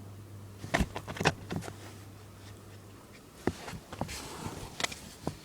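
Shopping bag crinkling and rustling as a cat paws and pounces at it, in two bursts of sharp crackles: about a second in, then again from about three and a half seconds in.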